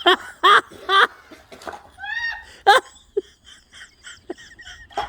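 A person laughing in short bursts, ending in a run of quick, evenly spaced laughs.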